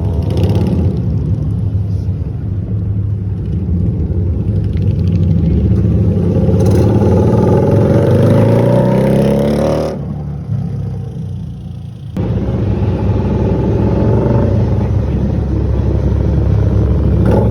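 Harley-Davidson V-Rod's V-twin engine running under way. Its pitch climbs steadily as the bike accelerates. About ten seconds in the sound suddenly falls away, then comes back to full level about two seconds later.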